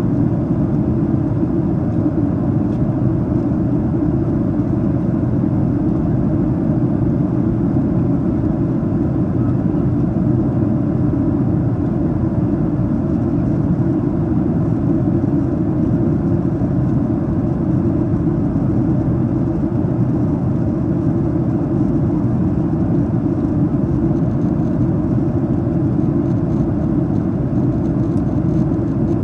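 Steady cabin noise of a Boeing 737-800 in its initial descent, heard from a seat inside the cabin: airflow over the fuselage and the CFM56-7B engines, a constant low rumble with no change in level.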